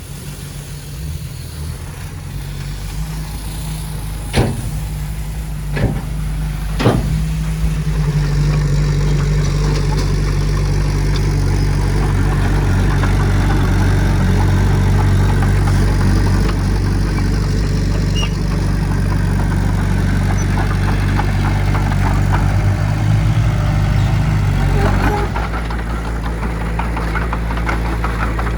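Heavy diesel earthmoving machine engine running, pulling harder and getting louder about seven seconds in and easing off near the end. Three sharp metal knocks come a second or so apart just before it builds.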